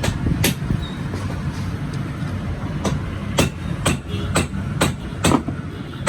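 Hammer blows, sharp and ringing: one near the start, then after a pause of about two seconds a run of strikes about two a second. Under them runs a steady low rumble.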